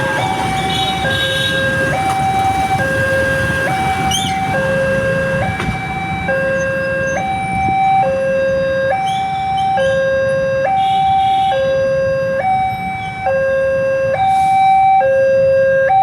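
Railway level-crossing warning siren sounding a two-tone electronic hi-lo alarm that switches between two pitches about every 0.7 seconds, signalling that the barrier is closing for an approaching train. A low rumble of waiting traffic runs underneath.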